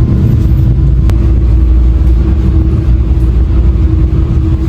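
Steady low rumble of a moving vehicle, with a constant hum running under it.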